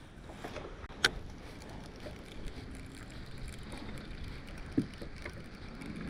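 Low steady wind and water noise around a fishing boat, with a sharp click about a second in and another near five seconds.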